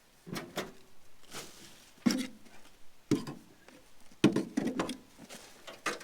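Shovel digging into dirt: irregular thuds with short scraping tails, about one stroke a second.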